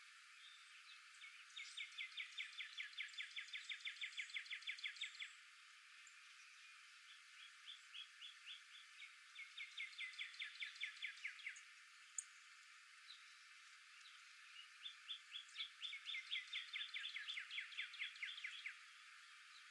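A small songbird singing a rapid, dry trill of repeated down-slurred notes, three times, each phrase lasting a few seconds and quickening as it goes, over a faint outdoor hiss.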